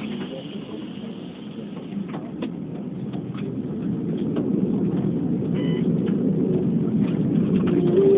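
Keikyu New 1000 series electric train running, heard from inside the front car: a steady rolling rumble that grows louder as the train gathers speed, with scattered clacks over the rails. Near the end a motor whine rises in pitch.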